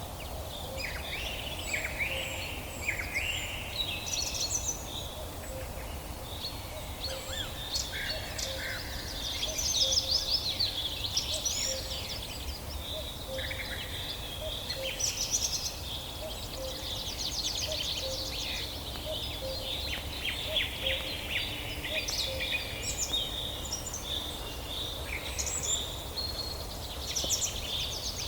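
Several songbirds singing and calling at once: overlapping chirps, rapid trills and sliding whistles, with a faint low note repeating under them, over a steady low background rumble.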